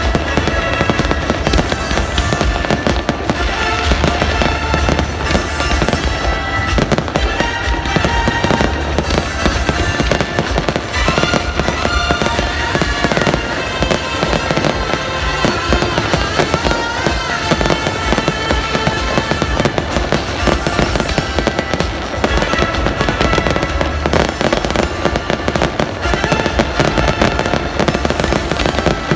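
Fireworks display: a dense, continuous barrage of bangs and crackles, with music playing under it.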